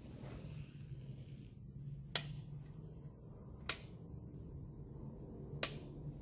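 Three sharp clicks, about a second and a half to two seconds apart, over a faint steady low hum.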